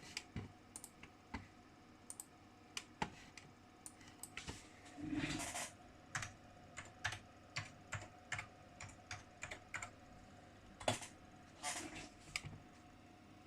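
Typing on a computer keyboard: irregular keystroke clicks, with a quick run of keys about five seconds in and a last few strokes near the end.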